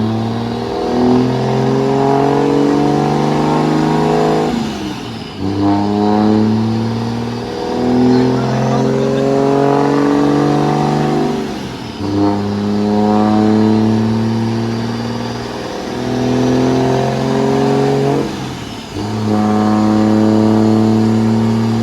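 Diesel pickup truck engine running hard on a chassis dyno, loud and steady. Its pitch holds for a second or two and then steps to a new level, with a brief let-off about every seven seconds.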